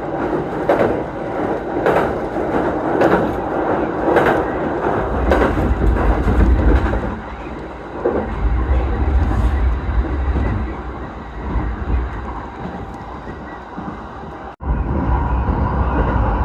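Electric commuter train running, heard from inside the carriage: a rhythmic clatter of wheels over rail joints, then a heavy low rumble. The sound drops out sharply for an instant near the end and comes back as a steady rumble.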